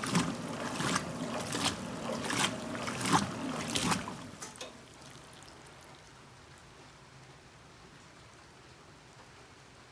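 1969 Westinghouse front-loading washer tumbling its load through the wash water, a splash about every three-quarters of a second as the clothes drop in the drum. The tumbling stops about four seconds in, leaving only a faint steady wash of water.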